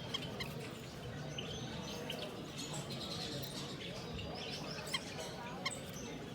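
Many small caged aviary birds chirping and calling at once, a dense overlapping twitter of short high notes over a low background murmur, with a few sharper single calls standing out.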